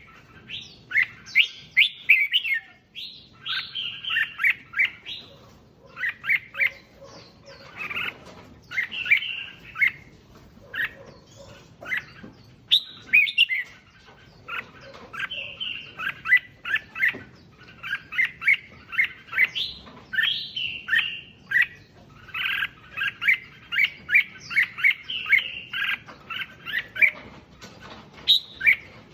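Red-whiskered bulbul song: short, bright chirped phrases repeated one after another with brief pauses between them.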